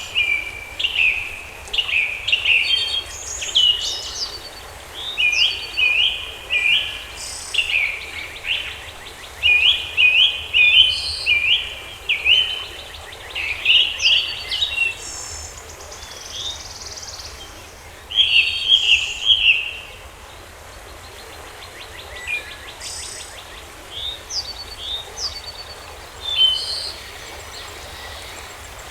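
Several birds chirping and calling: a dense run of short, quick chirps for the first twenty seconds or so, then sparser calls over a faint steady hiss.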